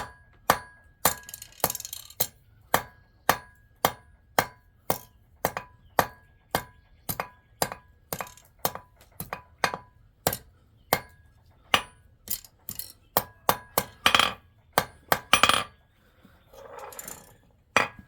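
Hand hammer striking metal in a steady rhythm of about two blows a second, each blow ringing a clear metallic tone, as silver is forged into a ring. A brief softer rasping sound follows the last blows near the end.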